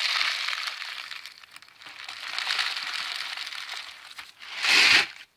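Crinkling, rustling handling noise as a dog-proof raccoon trap is rebaited, the bait and its packaging worked by hand. It eases off around the middle, builds again, and ends with a louder rustle just before cutting off suddenly.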